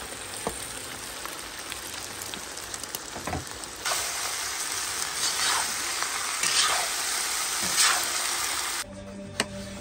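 Lamb and freshly added diced potatoes sizzling in hot oil in a cast-iron kazan. From about four seconds in the sizzle grows louder as a metal spatula stirs and scrapes the pan. It cuts off abruptly near the end.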